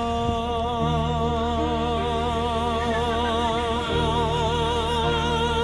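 A sung song: one voice holds a long note with wide vibrato over a sustained instrumental accompaniment.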